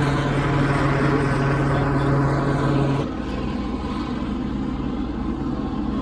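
Steady engine noise with a low hum that cuts off about three seconds in, after which a quieter steady rumble continues.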